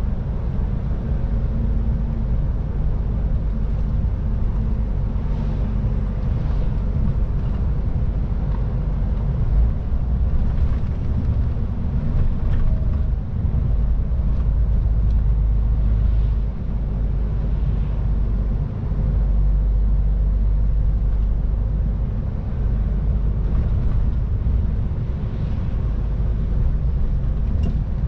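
MAN TGX 18.510 truck's straight-six diesel running steadily on the move, a continuous low rumble mixed with road noise.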